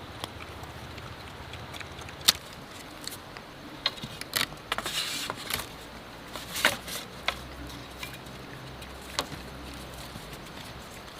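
Bamboo being worked by hand: a few scattered, sharp knocks and cracks, with a short rustling scrape about five seconds in.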